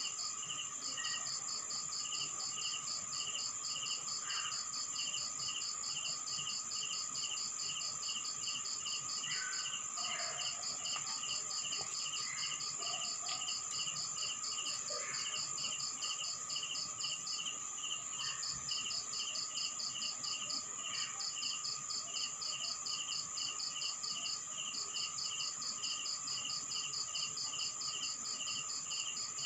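Night insect chorus: crickets chirping in fast even pulses, about four a second in the lower voice and quicker in the higher one, over a steady high-pitched drone and a lower continuous trill. Faint short calls break in now and then.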